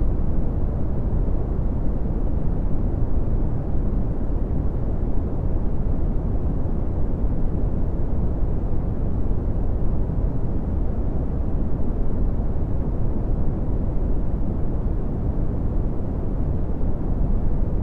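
Red (Brownian) noise: a steady, deep rumbling hiss whose loudness falls away steeply from bass to treble.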